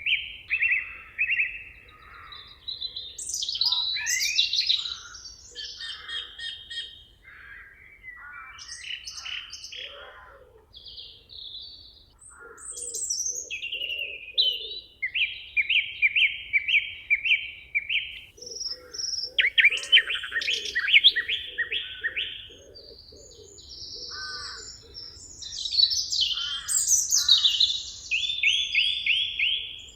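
Several songbirds singing over one another in a forest, a mix of chirps, glides and phrases of quickly repeated notes. A lower call repeats in a run of short pulses through the middle.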